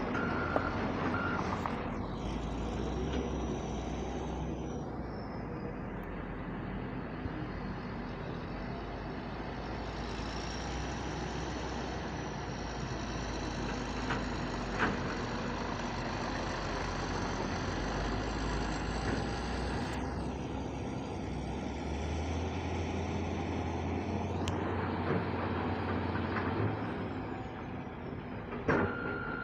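Heavy diesel machinery running steadily as a CAT 320D2 hydraulic excavator loads soil into a ten-wheel dump truck, the engine note shifting with the work. A reversing beeper sounds briefly near the start.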